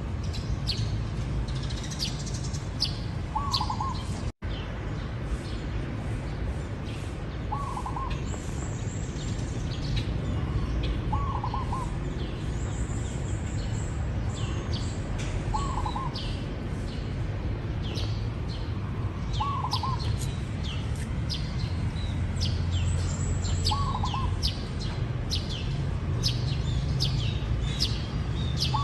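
Zebra dove cooing: a short rolling coo repeated about every four seconds, six times, over the steady quick chirping of small birds and a low background rumble. The sound cuts out for an instant about four seconds in.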